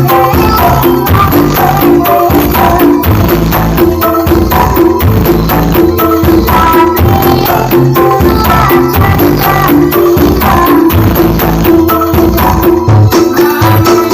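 Loud music with a fast percussion beat and tambourine-like jingles over a repeating melody, played through a huge stacked 'horeg' speaker system at full volume.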